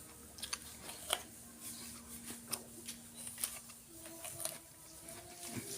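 Faint, scattered crisp clicks and crunches of someone chewing a crisp red wax apple (jambu air), with a faint low hum in the background.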